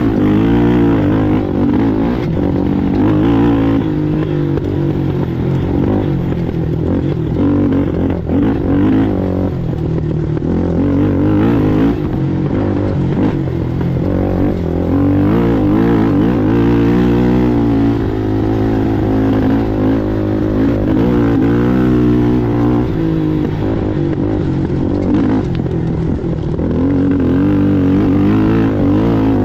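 Race ATV engine running hard under load, its pitch rising and falling continuously with the throttle as the quad is ridden over the course.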